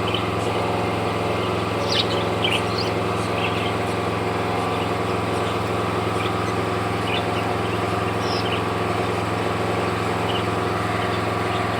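Lovebirds giving short, scattered high chirps over a steady machine-like hum.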